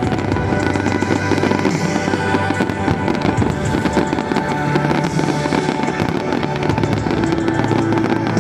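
Aerial fireworks display crackling and popping, a dense run of many rapid sharp cracks, over music.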